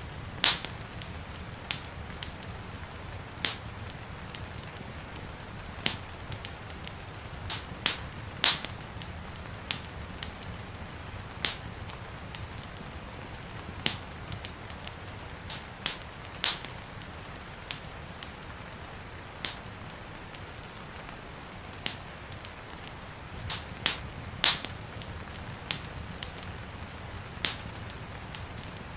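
Wood fire crackling in a fireplace, with sharp, irregular pops every second or so over a steady low rumble, and the soft steady hiss of gentle rain underneath.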